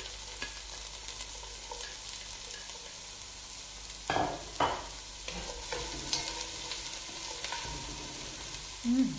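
Chopped garlic and onion sizzling in a little hot oil in a stainless steel pot, stirred with a spatula. There is a steady frying hiss, with two louder clatters about four seconds in.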